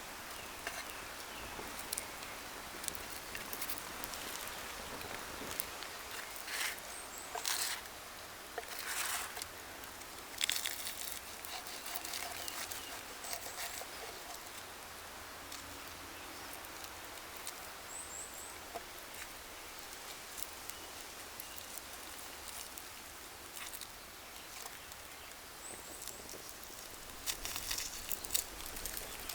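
Wood campfire burning with a steady hiss and scattered crackles and pops, bunched more densely about seven to eleven seconds in and again near the end. A few faint, short, high bird chirps.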